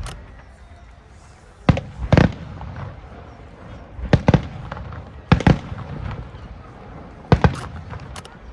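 Aerial fireworks exploding overhead, a series of sharp bangs mostly in close pairs about every second or two, each followed by a rumbling echo.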